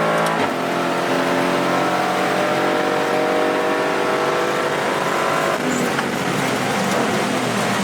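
Aston Martin Vantage GT4 race car's V8 engine pulling hard under acceleration, heard from inside the cabin, its pitch climbing steadily and then dropping sharply about five and a half seconds in.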